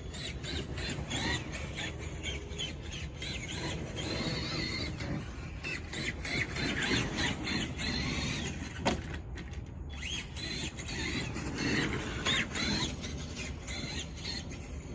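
Traxxas Summit RC monster truck's electric motor and gears whining, rising and falling in pitch as it is throttled up and eased off again and again. A single sharp knock about nine seconds in.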